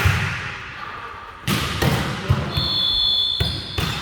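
Ball hits and thuds echoing in a gym hall during a volleyball game, then a whistle blows steadily for just over a second, stopping near the end.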